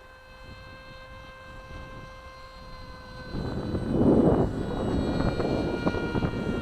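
Nitro glow-engine model airplane running at a steady high-pitched whine. From about three seconds in, a loud rough rushing noise rises over it.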